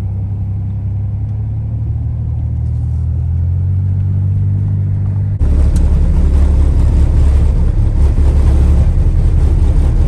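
Vehicle engine and road noise: a steady low drone, which about halfway through jumps suddenly to a louder rushing noise on top of the drone.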